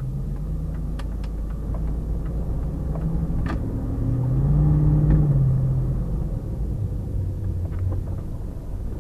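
Truck engine rumbling, heard from inside the cab while the truck is manoeuvring to turn around. The engine pitch rises to its loudest about five seconds in and then eases off, with a few short knocks and rattles along the way.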